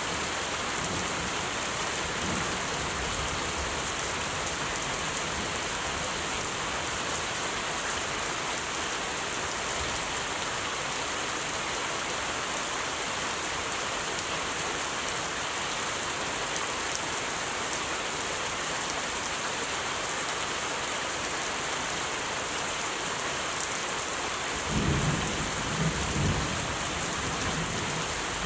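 Steady rain falling, an even hiss of drops on surfaces. A brief low rumble comes in near the end.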